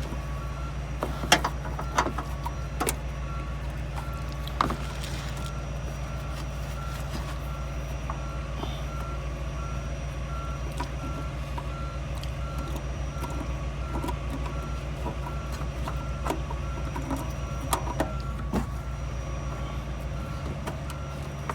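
A vehicle's reversing alarm beeping steadily in a repeating pattern over a low engine hum. Scattered sharp clicks and knocks come from tools working at a stuck oil filter.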